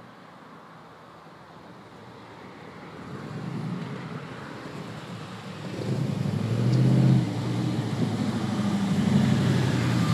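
Cobra 427 roadster's V8 engine at low revs, faint at first and growing much louder from about six seconds in as the car pulls up close, loudest around seven seconds in.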